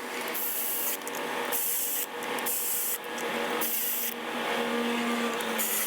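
Hand ratchet working on intake manifold bolts, a series of short rasping ratcheting runs about one every half second to a second.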